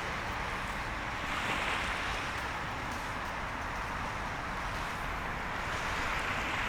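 Sea surf washing onto the shore, swelling and easing, with wind on the microphone.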